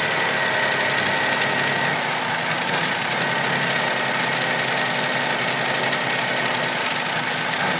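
Suzuki Celerio's three-cylinder petrol engine idling steadily, running during a test for an engine misfire.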